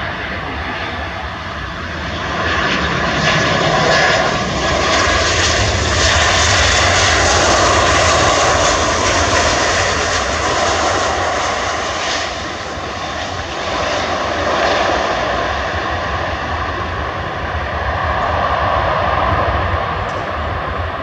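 Jet engines of a Boeing 737-800 airliner (CFM56-7B turbofans) on landing, a continuous rumbling whine that grows louder a couple of seconds in and is loudest a few seconds later.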